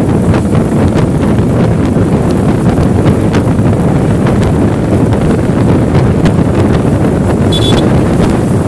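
Strong wind buffeting the microphone: a loud, steady rumble with no pause. A brief high-pitched chirp comes near the end.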